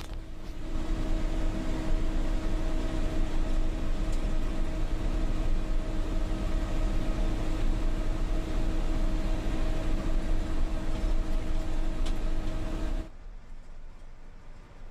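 Tata 3118 lorry's diesel engine running steadily under way, a constant drone with road and wind noise. It cuts off suddenly near the end to a much quieter low hum.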